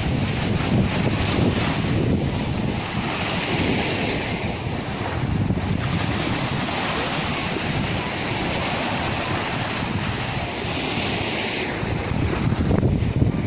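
Sea waves breaking and washing in a continuous rush, the hiss of the wash growing stronger for several seconds through the middle, with wind rumbling on the microphone.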